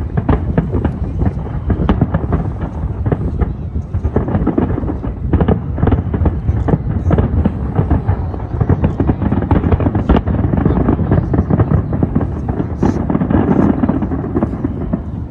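Fireworks display in a dense barrage: rapid, overlapping booms and crackling bangs with a continuous low rumble. The barrage thins out near the end.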